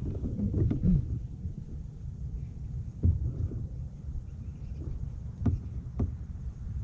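Wind rumbling on the microphone aboard a kayak, with a few sharp knocks. The loudest knock comes about three seconds in, and two come close together near the end.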